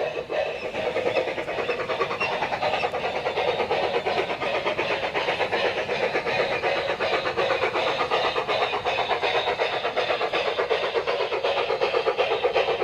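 Battery-powered G-scale model train running on the garden layout, making a rapid, even clicking rhythm.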